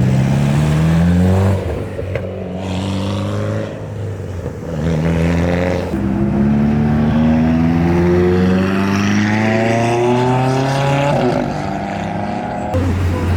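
Car engines accelerating hard, their pitch rising: a short pull in the first second and a half, another about five seconds in, then one long climb that peaks about eleven seconds in. A steady low engine hum runs underneath.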